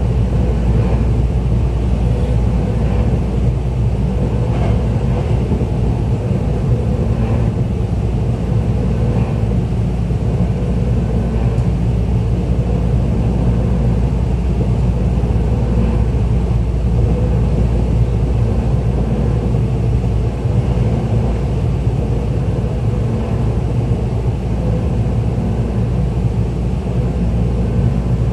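Running noise inside a Tokyo Metro 10000 series commuter train car under way: a steady low rumble of wheels on the rails and the car body, with a steady hum running through it.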